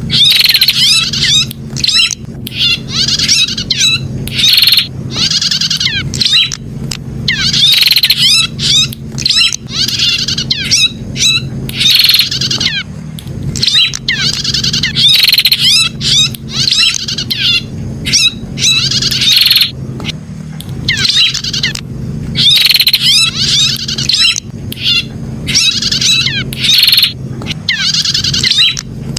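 Prinia (prenjak) calling in quick, high, sweeping chatters, about a second long each with short breaks, one after another. A steady low hum runs underneath.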